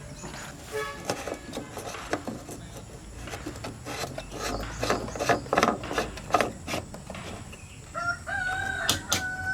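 A run of irregular scrapes and knocks, as from hand work with tools, then a rooster crows in one long call starting about a second and a half before the end.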